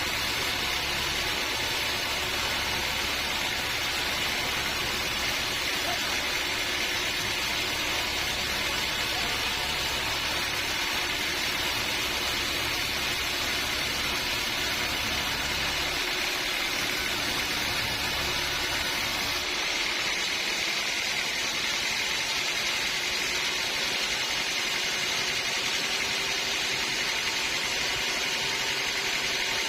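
Sawmill machinery running steadily with a continuous hiss-like whine. The low rumble under it drops away abruptly about two-thirds of the way through.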